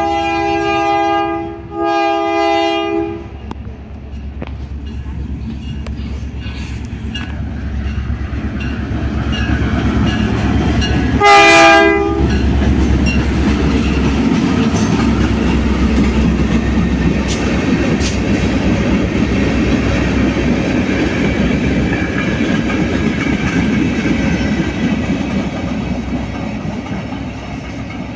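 Diesel locomotive air horn sounding a chord in two long blasts, then one short loud blast about eleven seconds in, as a freight train led by EMD GP-series (Geep) locomotives passes close by. Between and after the blasts, the locomotives' engine rumble and the clickety-clack of hopper cars rolling over the rail joints go on, easing slightly near the end.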